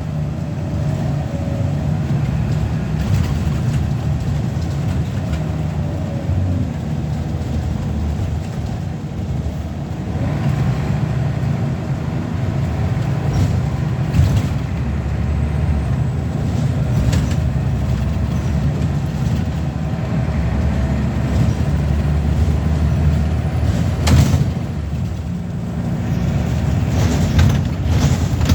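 Scania L94UB bus's diesel engine running steadily under way, heard from on board, with a few sharp clicks or knocks, the loudest about 24 seconds in.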